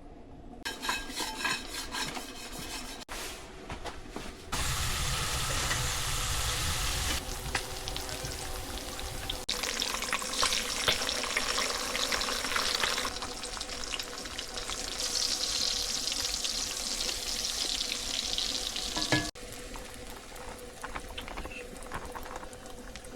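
Breakfast food sizzling and frying in a pan, the hiss rising and falling as the sound cuts between several short takes.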